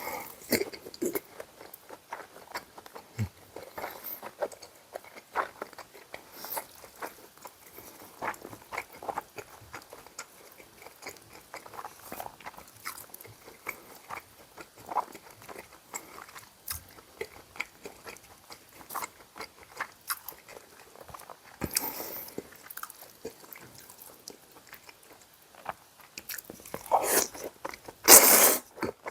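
A person chewing food close to the microphone: a steady run of wet, smacking mouth clicks. A few longer, louder mouthfuls come around two-thirds of the way through and again near the end.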